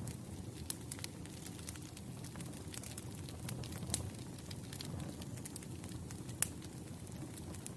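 Wood campfire burning, with many irregular sharp crackles and pops over a steady low rush of flame. The loudest pop comes a little past six seconds in.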